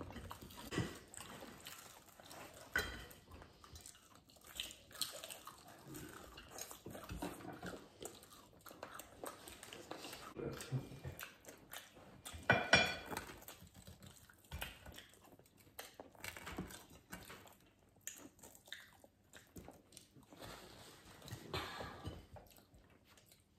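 People chewing and biting into crispy deep-fried breaded chicken, with scattered small crunches and crackles and one louder sharp sound about twelve seconds in.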